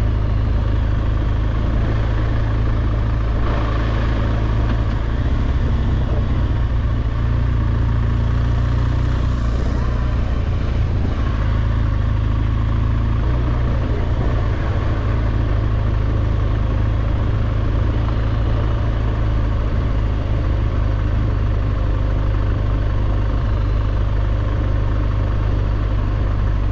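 Motor vehicle engine running steadily with a continuous low drone and road or wind noise over it, while the vehicle is on the move.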